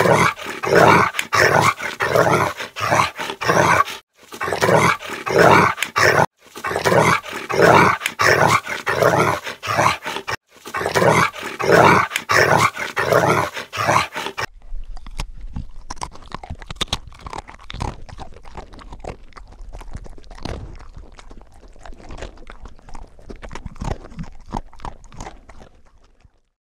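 Labrador barking over and over, about two barks a second, in several short clips cut together. About fourteen seconds in, the barking gives way to quieter scattered crunching and clicking.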